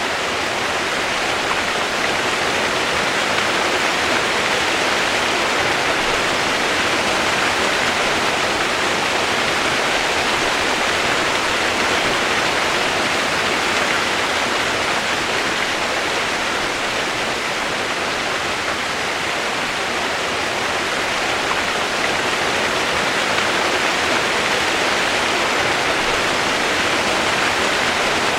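Continuous rain sound, a steady even hiss with no single drops or changes standing out.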